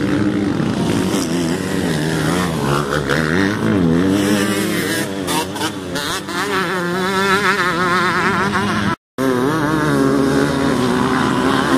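Motocross bike engines running hard on the track, the throttle rising and falling rapidly in quick wavering revs. The sound cuts out completely for a fraction of a second about nine seconds in.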